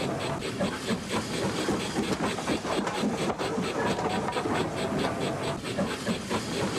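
Model train running along the layout's track, a steady rolling and motor rumble with a regular beat of about four strokes a second.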